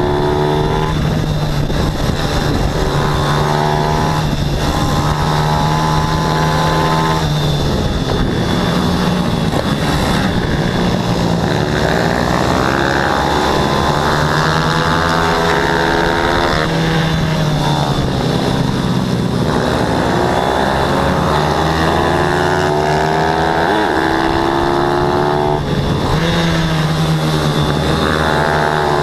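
Several racing pit bike engines at high revs, their pitch climbing and dropping over and over as they accelerate, change gear and back off for corners.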